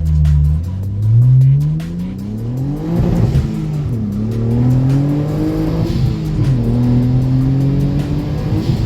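Twin-turbocharged 3.8-litre V6 of a Hyundai Genesis Coupe accelerating hard through the gears of its manual gearbox. Revs climb steadily, drop at upshifts about four and six and a half seconds in, then climb again.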